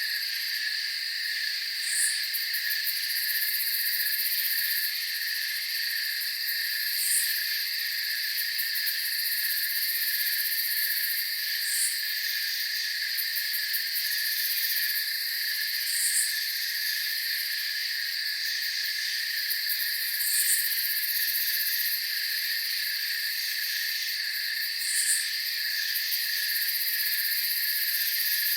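Night chorus of crickets and other insects: a steady, shrill trill in several high pitches, with a short, higher chirp repeating about every four and a half seconds.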